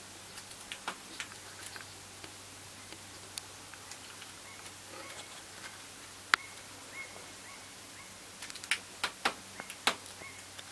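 Pet bird eating: sharp clicks and taps of its beak on food and dish, irregular, with a quicker flurry near the end, and a few faint short chirps in between.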